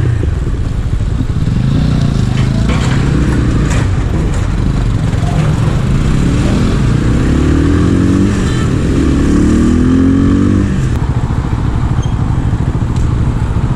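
250 cc scrambler motorcycle engine running under way, its note rising twice in pitch between about six and eleven seconds in, as when accelerating through a gear change, then settling back.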